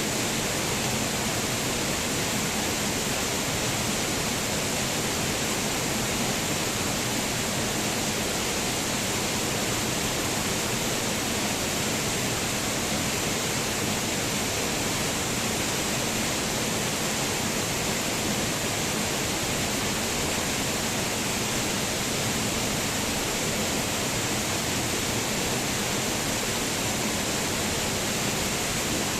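Waterfall: falling water rushing in a steady, unbroken noise, strong in the highs.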